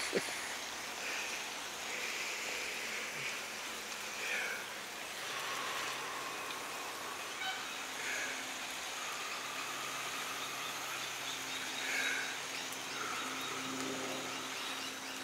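Outdoor backyard ambience with birds calling on and off, short calls, some sweeping down and back up in pitch. A low steady hum comes in about halfway through.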